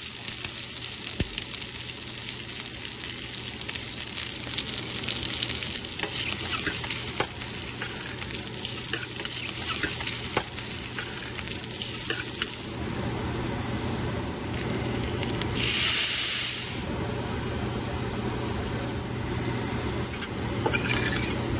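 Boiled eggs frying in hot oil in a steel pan: steady sizzling with many small crackles, and a spoon stirring and turning them. The sizzle swells louder about two-thirds of the way through and again near the end.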